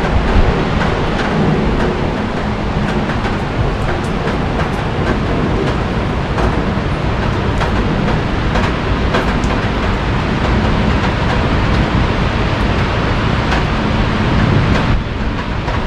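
Heavy rain falling with a steady hiss, scattered drops tapping sharply close by, over a low rumble of vehicles on wet roads. The rumble swells about fourteen seconds in, then eases.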